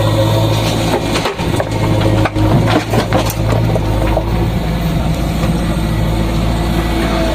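JCB backhoe loader's diesel engine running steadily, with a cluster of sharp cracks and crunches about one to three and a half seconds in, as of material being broken during digging.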